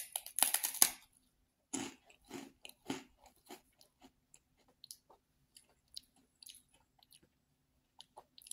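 A person biting into a crisp, round biscuit and chewing it: a few loud crunches in the first second, then softer, irregular crunching chews that thin out.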